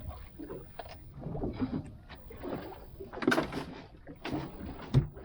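Irregular knocks and splashy water noise aboard a small fishing boat while a fish is brought in, with a louder burst past the middle and one sharp thump near the end.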